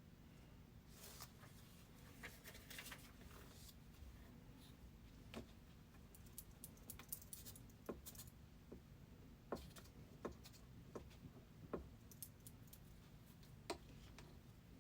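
Near silence: room tone with a low steady hum and a scatter of faint small clicks and handling noises, coming more often in the second half.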